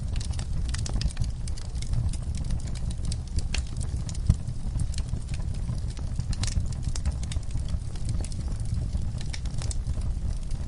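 Wood fire in a fireplace crackling, with many sharp pops over a steady low rumble of burning, and one louder pop about four seconds in.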